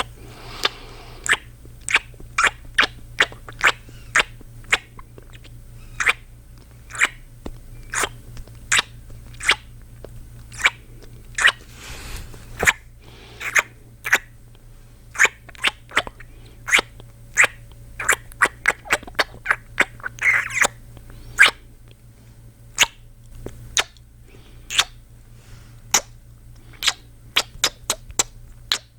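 A man's close-miked kissing sounds: a long string of short, wet lip smacks and pops, one or two a second, with a quicker run of them about two-thirds of the way through.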